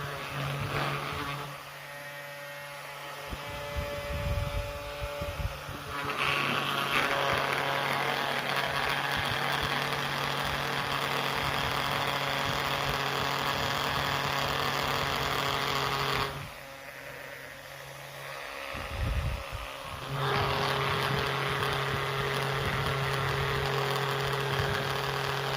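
Small electric motor of a homemade mini helicopter spinning its rotor with a steady buzzing hum. It stops about 16 seconds in, there is a thump, and it starts up again about four seconds later.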